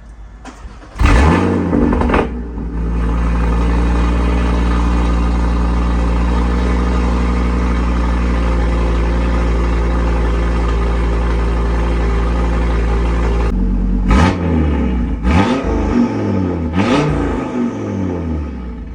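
A sports car with downpipes and an aftermarket exhaust cold-starts about a second in, flaring loudly, then settles into a steady high cold idle. Near the end the note changes and the engine is blipped about three times, each rev rising and falling away.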